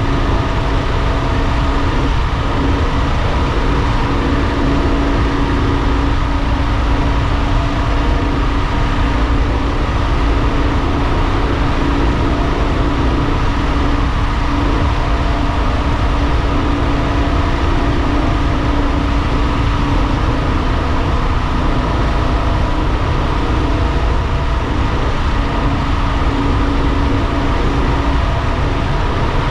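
A vehicle travelling at a steady speed: its engine runs at constant revs under an even rush of road and wind noise, with no change in pitch or level.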